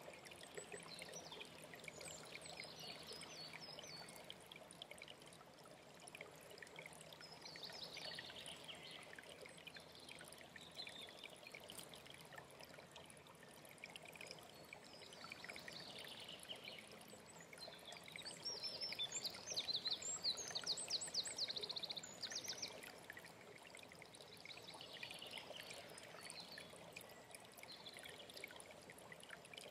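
Alpine stream running steadily, with songbirds singing short high phrases over it every few seconds; the loudest song, a fast run of high notes, comes about two-thirds of the way through.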